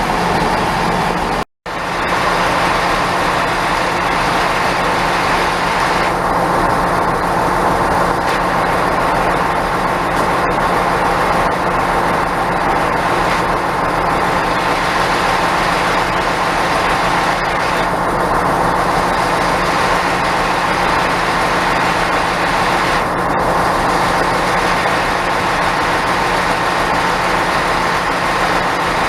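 A train's engine running steadily: a loud, even drone with a constant hum. It cuts out completely for an instant about a second and a half in, then carries on unchanged.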